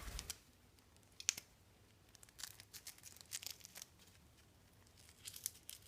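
A Velcro fastening being picked at and pulled, giving faint, short, scratchy tearing rasps and clicks every so often, more of them near the end.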